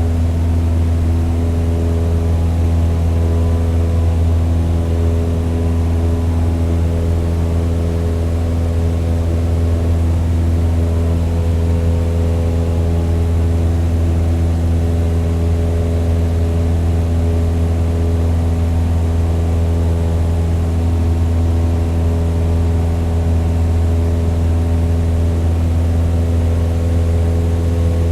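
Toy plane's motor running in a steady drone, holding the same pitch and loudness throughout.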